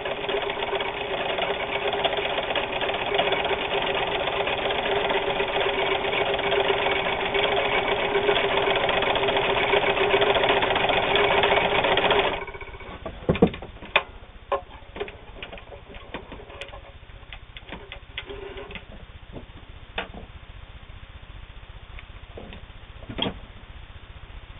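Meister sewing machine running steadily, stitching a straight stitch through cotton sheeting, then stopping abruptly about twelve seconds in. A few scattered clicks and knocks follow.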